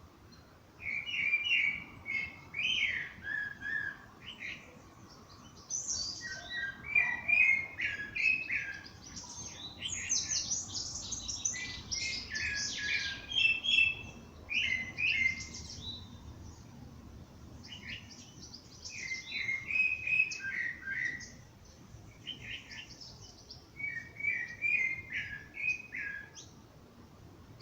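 Songbirds singing: a short warbled phrase of quick notes repeats every few seconds. Higher, thinner chirps from at least one other bird overlap it through the middle stretch.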